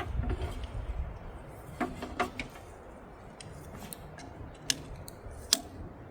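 Scattered light metallic clicks and taps of hands handling the engine's ignition wiring and connections, over a low rumble.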